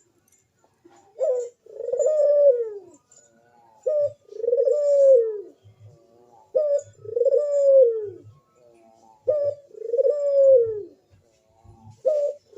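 Crossbred puter dove (domestic ringneck dove) cooing in a steady series. Each call is a short rising note and then a long arched coo that falls away, repeated about every two and a half seconds. It is the calling of a bird in full breeding condition.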